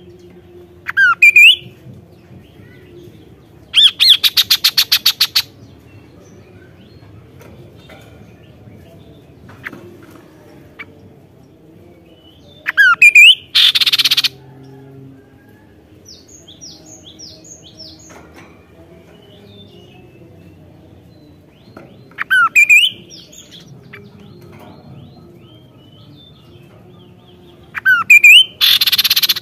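Kaso-kaso bird singing in loud, separate phrases, about four of them, each a few quick whistled notes sweeping up and down; three of the phrases end in a harsh, buzzing rattle. Soft chirps come between phrases.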